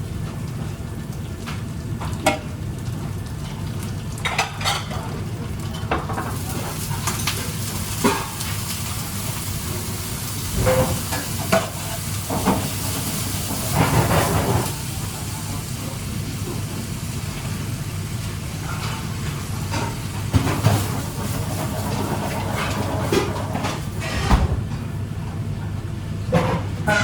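Food sizzling in a pan, over a steady low hum, with scattered short knocks and clinks of utensils against cookware.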